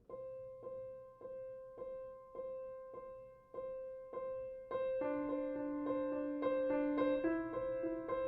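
Background piano music: a single note struck over and over, about every 0.6 s, then fuller notes joining about five seconds in.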